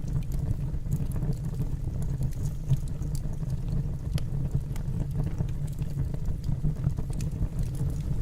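Fire burning in a fireplace: a steady low rumble of the flames with scattered small crackles and pops.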